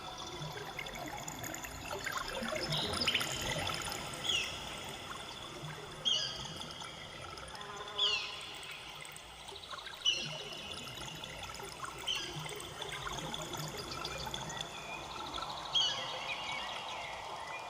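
Running water trickling steadily, with a short high chirp that slides downward, repeating about every two seconds.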